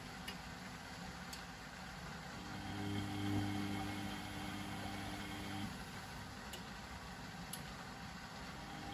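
Privileg Sensation 952 S top-loading washing machine running. Its motor hum comes on a couple of seconds in, runs about three seconds and stops, a start-stop rhythm typical of the drum being turned in bursts during washing. A few faint clicks fall in the pauses.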